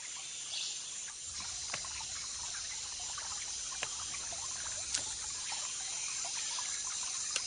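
Rainforest ambience: water dripping and trickling, with many small ticks and a few sharper clicks, over a steady high hiss.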